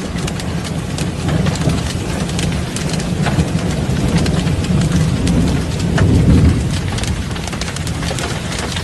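Heavy thunderstorm rain, with many sharp drop hits over a steady wash. A low rumble of thunder swells to its loudest about six seconds in, then eases.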